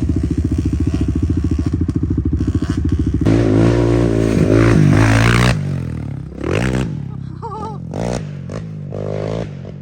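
ATV engine running at a steady fast idle, then revved harder about three seconds in, with the revs rising and falling several times after that.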